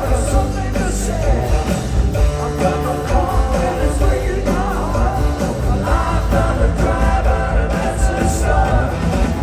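Live rock band playing a song with singing over a steady, loud full-band sound.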